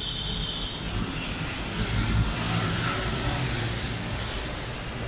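Steady rumble of vehicles, with a KRL electric commuter train approaching along the tracks.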